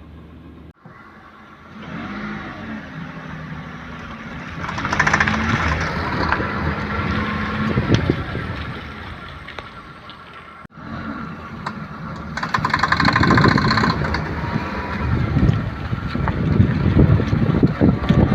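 Maruti 800 driving through right-hand turns, with engine and road noise and a rapid clicking from the left front drive axle's outer joint, loudest in two bursts about 5 and 13 seconds in. The joint is worn: its boot tore, grease got out and dirt got in, wearing the balls and leaving play. The sound cuts off abruptly twice.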